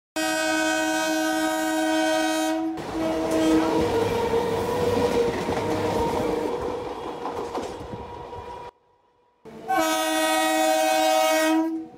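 A train horn blows one long note, followed by the rumble and clatter of a passing train for several seconds; after a brief silence the horn blows again for about two seconds.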